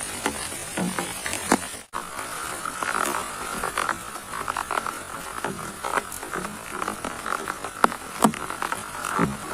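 Heavy rain falling, with many irregular drops ticking sharply over a steady hiss and a steady high hum in the background. The sound drops out briefly about two seconds in.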